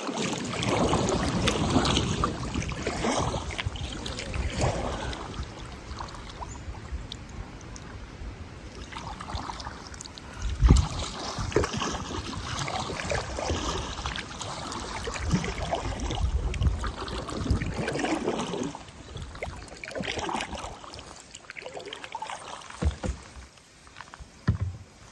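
Kayak paddling on a river: paddle strokes splashing and water trickling, with a sharp knock about ten seconds in and a few more knocks near the end.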